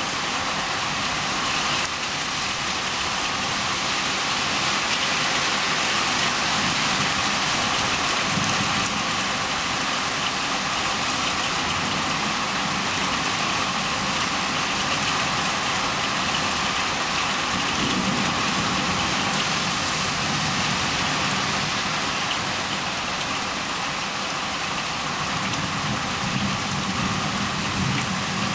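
Heavy rain falling steadily, an even hiss. A low rumble swells about eight seconds in and again from about eighteen seconds on.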